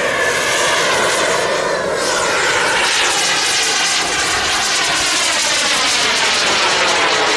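Giant-scale radio-controlled model airplane's engine running loud and steady as it flies past, its pitch dropping about two seconds in.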